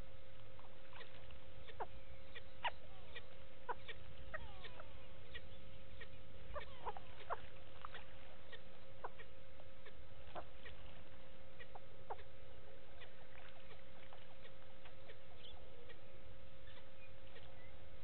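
Birds calling in many short, scattered chirps and squeaks, over a steady faint hum and a low rumble.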